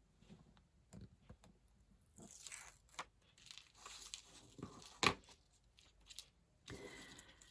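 Paper cardstock being handled and torn, with rustling, light clicks and one sharp tap about five seconds in: die-cut pieces being pulled free of their leftover scrap.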